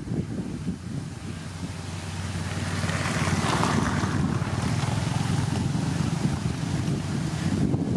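Motor grader's diesel engine running steadily, growing louder about three seconds in, with a rushing hiss over it.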